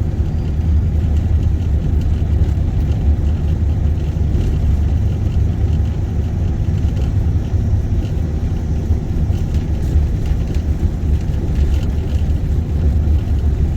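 Steady low rumble of a car being driven: engine and tyre road noise, unbroken and even.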